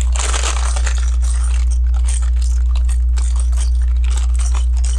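LEGO pieces being handled and sorted by hand: dense rustling with many small plastic clicks, over a steady low hum.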